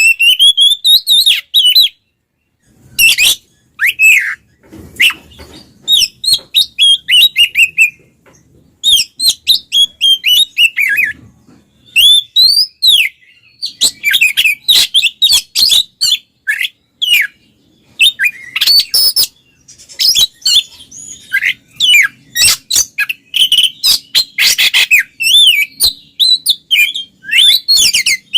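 Oriental magpie-robin in full, loud song: quick runs of clear whistled notes that slide up and down, mixed with harsh chattering notes, in bursts broken by short pauses.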